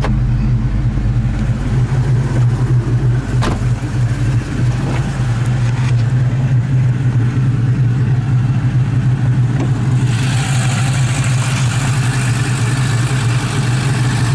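2001 Ford Mustang GT's 4.6-litre V8, fitted with Comp Cams 262 camshafts, Bassani mid-length headers, catless X-pipe and catback, idling steadily. A single knock about three and a half seconds in, and a hiss joins from about ten seconds in.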